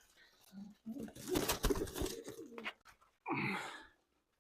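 Racing pigeons cooing at the loft, with a cluster of clicks and clatter in the middle and a short louder call just past three seconds.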